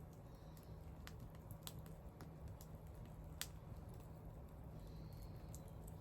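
Wood fire crackling faintly, with scattered irregular pops and one sharper pop about three and a half seconds in.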